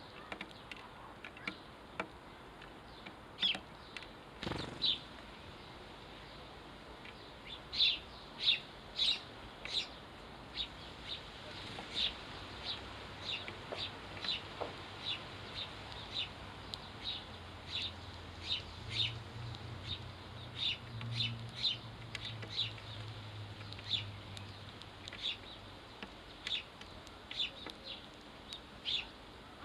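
House sparrows chirping: short, sharp chirps repeated a few times a second, on and off, with a faint low hum in the middle.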